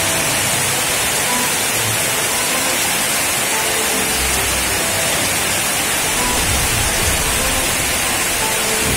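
Steady rain falling on a wet paved yard and potted plants, a dense, even hiss.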